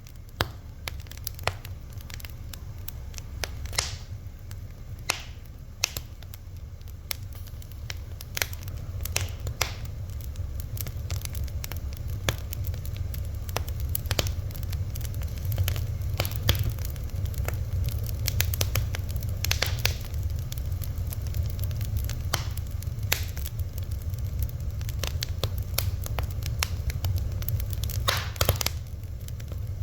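Fire crackling: irregular sharp pops and snaps, several a second at times, over a steady low rumble, with a slightly longer hissing pop about two thirds of the way in and another near the end.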